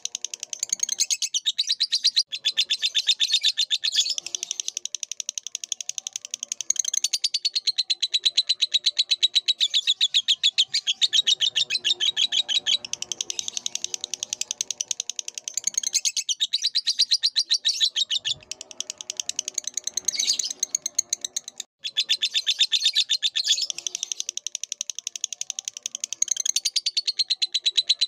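Lovebird singing a long, continuous chattering song: a rapid, unbroken stream of high chirps with a few short breaks, one a brief silence about two-thirds of the way through.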